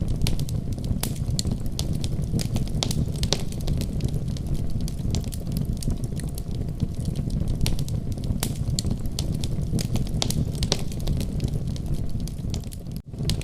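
Wood fire burning in a fireplace, with irregular sharp crackles and pops over a steady low rumble. The sound cuts out for an instant near the end.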